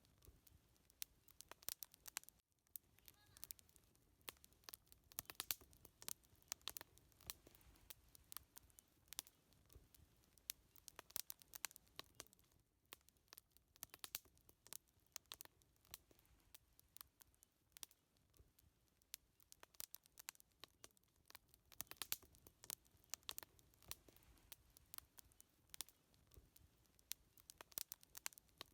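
Wood fire crackling steadily, with many sharp, irregular pops.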